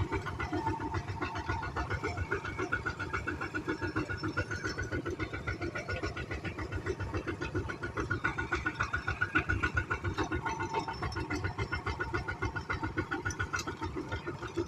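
Single-cylinder diesel engine of a two-wheel walking tractor running steadily, with an even, rapid putting beat.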